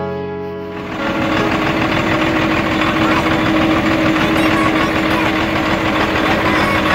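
Cummins turbo-diesel engine idling with a steady diesel clatter and a constant hum. Piano music fades out in the first second.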